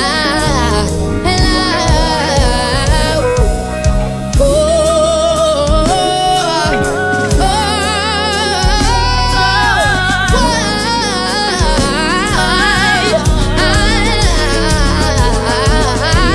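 Female R&B singer doing wordless runs and held notes with wide vibrato over a live band's bass, keys and drums.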